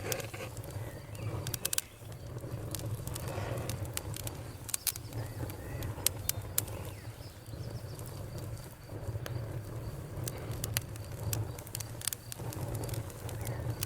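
A fire crackling: sharp pops and snaps at irregular intervals over the steady low rumble of the flames.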